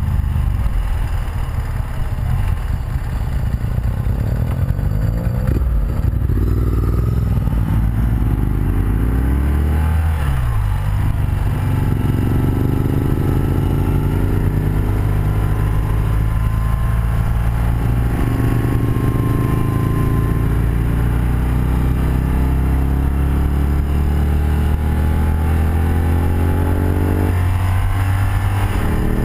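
1984 BMW R100RS air-cooled boxer twin running at road speed, heard from the rider's seat, its revs falling and building again several times through the ride.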